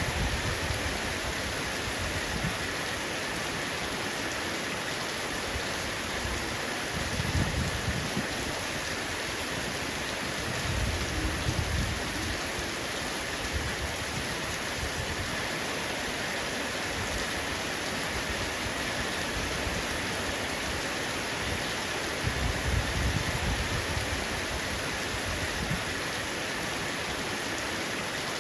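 Heavy rain falling steadily on a roof, a dense even hiss. Low rumbles of distant thunder swell up a few times.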